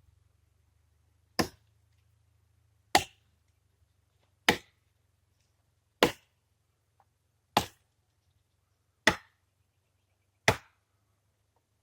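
Tree being chopped by hand with a bladed tool: seven sharp blows into wood at an even pace, about one every one and a half seconds.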